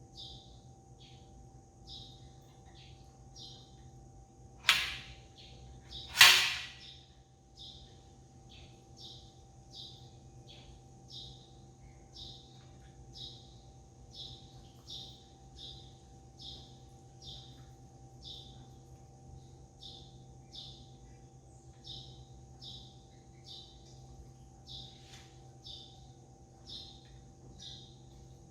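A small bird chirping over and over, about one and a half chirps a second, over a steady low hum. About five seconds in, two sudden loud noises come a second and a half apart, the second the loudest and trailing off briefly.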